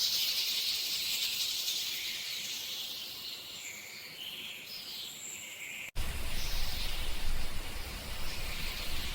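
Outdoor background noise: a high, even hiss that slowly fades, then after a sudden cut about six seconds in, a fuller rushing noise with more low end.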